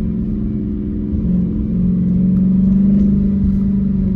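2016 Dodge Challenger Hellcat's supercharged 6.2-litre V8 with its mid mufflers deleted, running under light throttle on the road. The exhaust note swells and rises a little in pitch about two seconds in, then eases off near the end.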